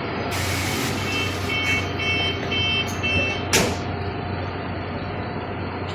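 A heavy vehicle's reversing alarm beeps five times, about twice a second, over a steady low engine hum. A brief hiss comes just before the beeps, and a sharp burst of noise follows them.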